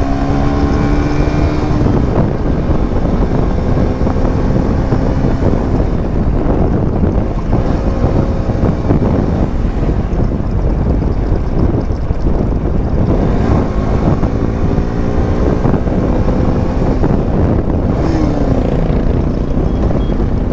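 KTM motorcycle engine running while riding, its pitch rising as it accelerates near the start and again about two-thirds of the way through, under heavy wind buffeting on the microphone.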